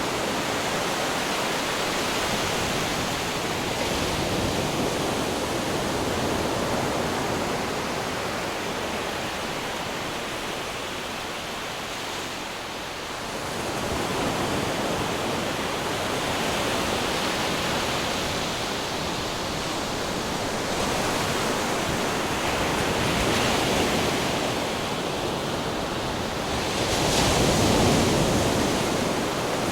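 Ocean waves crashing against rocks: a continuous rush of surf that swells and ebbs, easing off around the middle and surging to its loudest near the end.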